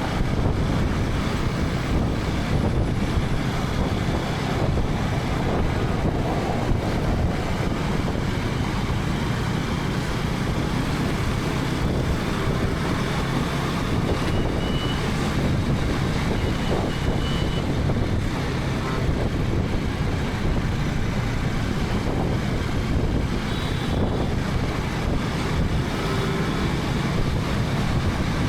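KTM 250 Adventure's single-cylinder engine running steadily while riding, mixed with heavy wind noise on the microphone.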